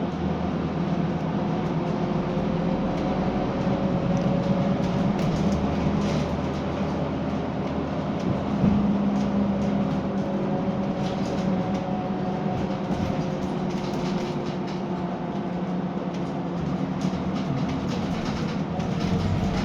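Scania K320UB diesel bus underway: a steady engine and drivetrain drone whose pitch rises and falls gently, with light rattles and a single knock about eight seconds in.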